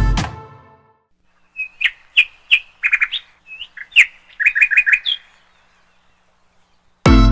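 A small bird chirping: a string of short, high chirps over about four seconds, with quick runs of three and four near the middle.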